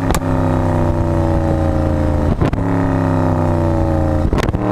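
Mercedes-Benz SLS AMG's 6.2-litre V8 exhaust on the overrun, the engine note falling steadily as the revs drop. A sharp crack comes about two and a half seconds in and again near the end, each time lifting the revs again: paddle-shift downshifts.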